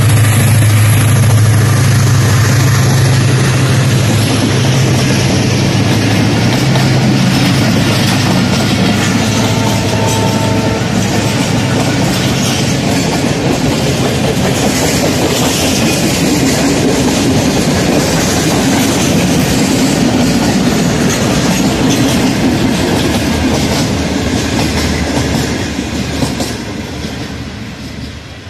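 Diesel-hauled passenger train passing close by. The locomotive's engine hum fades over the first few seconds, then the coaches' wheels run past on the rails. The sound dies away near the end as the last coach recedes.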